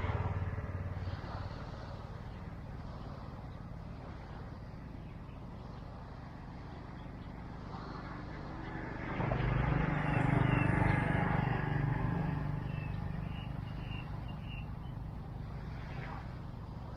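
A motor vehicle passing by: its engine hum rises about nine seconds in, peaks and fades away over the next few seconds, over a steady outdoor background noise.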